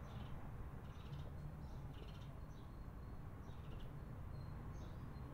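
A bird chirping faintly, short high notes repeating at irregular intervals, over a low steady rumble.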